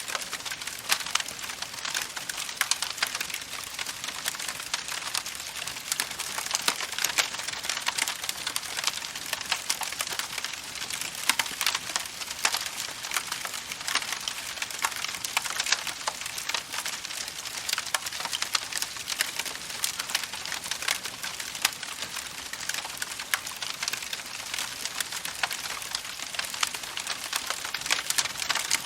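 Campfire crackling steadily, wood popping and snapping every moment or so over a hiss of burning.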